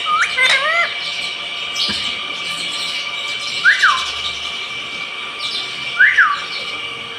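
Indian ringneck parrot giving short whistled calls that rise then fall: a quick cluster at the start, then one call about four seconds in and another about six seconds in.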